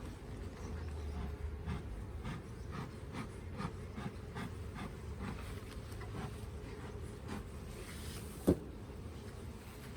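Honey bees buzzing around an open hive during an inspection, with faint repeated scuffs of handling. One sharp knock about eight and a half seconds in is the loudest sound.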